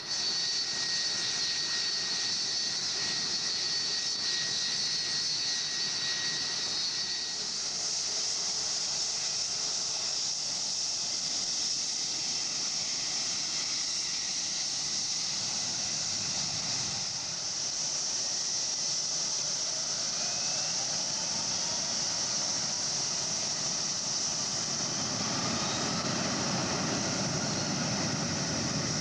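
Boeing 757 airliner's jet engines running: a steady loud hiss with a high, thin whine for the first seven seconds or so, and a deeper rumble building over the last few seconds.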